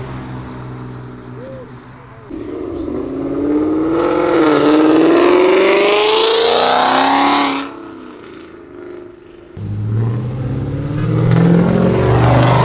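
A car engine idles, then a car accelerates hard, its engine note climbing steadily for about five seconds before cutting off suddenly. Another car's low engine note comes in a couple of seconds later and revs up near the end.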